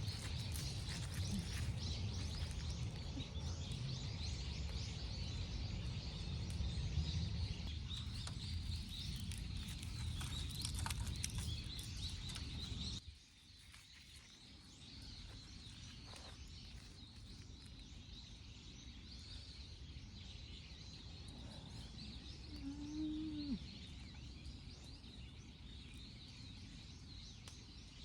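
Outdoor ambience with birds chirping and a low rumble that cuts off abruptly about halfway through, leaving quieter background. A short pitched call sounds near the end.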